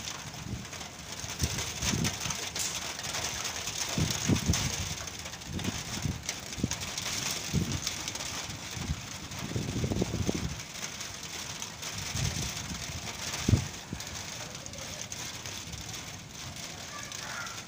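Rain starting to fall, a steady hiss, with gusts of wind rumbling on the microphone every few seconds and one stronger buffet near the end.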